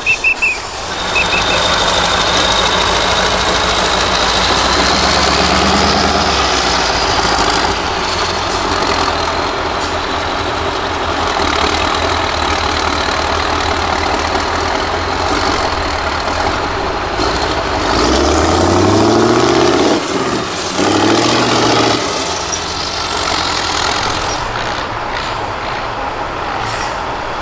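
Diesel engine of an 8x8 Mercedes-Benz trial truck running steadily under load. About two-thirds of the way through, the revs climb and fall back twice in quick succession.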